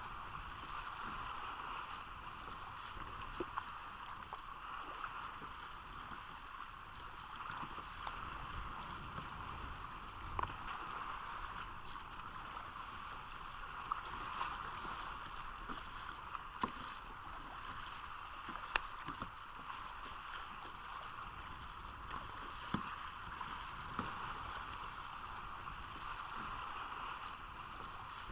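Water sloshing and lapping around a kayak, with scattered sharp clicks and knocks every second or two.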